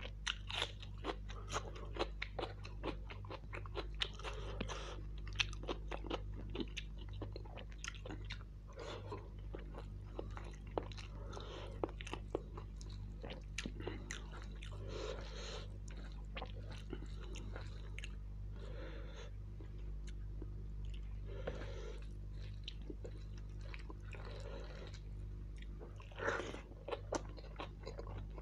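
Close-miked eating: chewing and biting into mouthfuls of biryani and raw onion, with many short crisp crunches and wet mouth sounds over a steady low hum.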